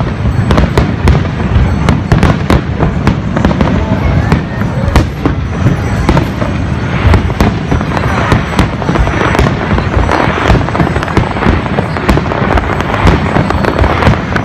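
Fireworks display: aerial shells bursting in a rapid, continuous barrage of bangs over a low rumble. A denser crackling hiss joins about halfway through.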